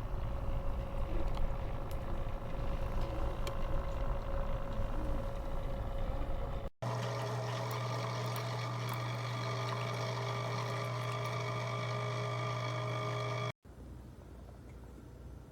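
Single-serve pod coffee maker running, its water pump giving a steady hum over a rushing, rumbling water noise. It cuts abruptly twice: the middle stretch is a strong steady low hum, and the end is much quieter.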